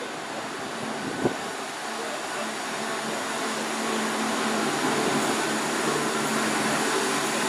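Class 170 Turbostar diesel multiple unit pulling out of the station, its underfloor diesel engines running with a steady drone that grows a little louder partway through. A single sharp knock about a second in.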